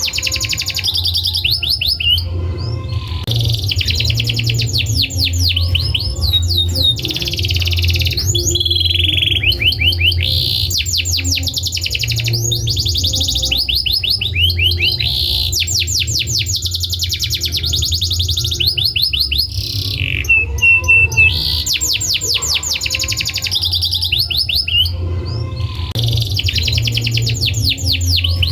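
Domestic canary singing: long rolls of fast, rapidly repeated trilled notes in phrases a few seconds long with short breaks between, over a steady low hum.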